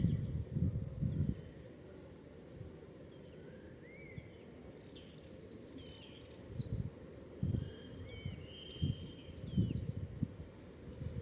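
Small birds chirping repeatedly in short, high calls, many sweeping down in pitch, busiest in the second half. Irregular low, muffled thumps come and go beneath them, loudest at the start and again near the end.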